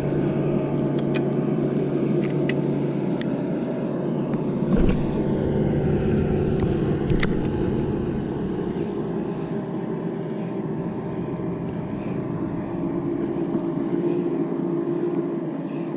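A motor hums steadily throughout, with a few faint clicks over it.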